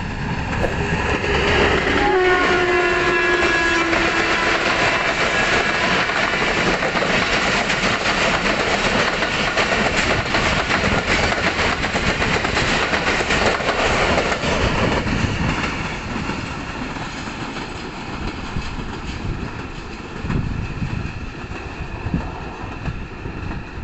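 Diesel locomotive sounding its horn as it passes, the horn's pitch dropping as it goes by, then the dense rolling rumble and clickety-clack of a long rake of passenger coaches passing close, easing off after about fifteen seconds.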